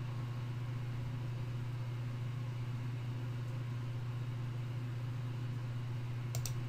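Steady low hum with faint hiss: the background noise of a desktop recording setup. A short double click, like a mouse button pressed and released, comes near the end.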